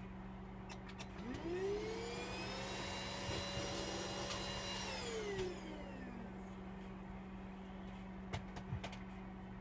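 A small electric motor spins up to a steady whine, runs for a few seconds, then winds down. A few light clicks follow near the end.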